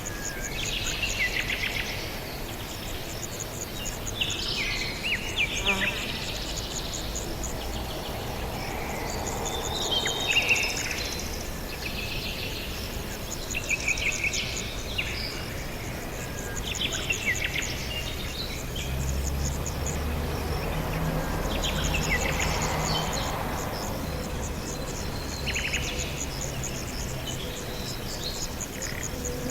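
Small birds chirping in overlapping short, rapid trills and chip calls at varying pitches, one after another. A low hum joins in for a few seconds past the middle.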